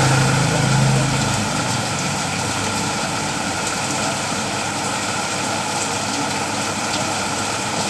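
Steady rain falling, an even hiss. A low motor hum under it fades out in the first second and a half.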